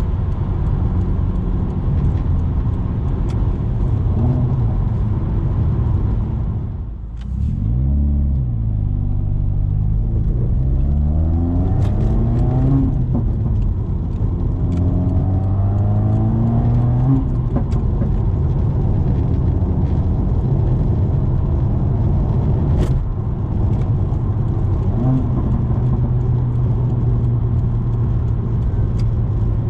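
Subaru WRX's turbocharged flat-four with muffler and resonator deleted, driving with a loud, raw exhaust note. About seven seconds in the sound drops off briefly, then the pitch climbs as the car accelerates through two gears, with shifts around 13 and 17 seconds, before it settles back to a steady cruise. A few sharp cracks come from the exhaust along the way.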